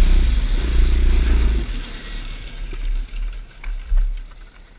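A small motorcycle engine running steadily, then dropping away about a second and a half in, leaving only faint low rumbles.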